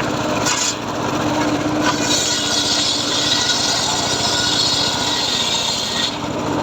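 Engine-driven homemade circular saw running steadily. From about two seconds in to about six seconds, its blade cuts through teak wood, adding a bright, hissing rasp over the engine drone.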